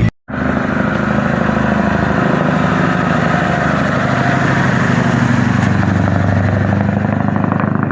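Truck engine running steadily with a fast, even beat, starting suddenly a moment in.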